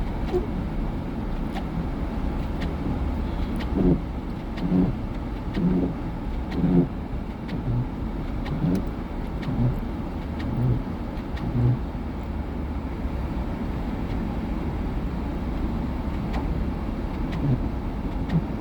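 Car driving, heard from inside the cabin: a steady low road and engine rumble. From about four seconds in to about twelve seconds in there is a series of short low thuds, roughly one a second.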